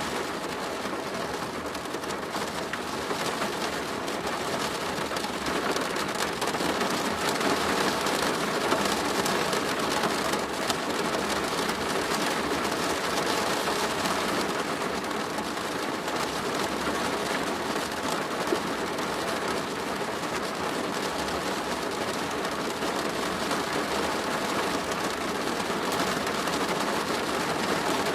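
Steady rain drumming on a plastic roof: a dense patter of countless drops.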